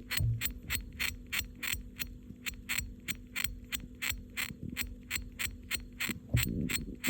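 Campbell's dwarf hamster gnawing hard with its incisors, a fast even run of sharp rasping scrapes at about five bites a second, the kind of grating sound that sets one's teeth on edge.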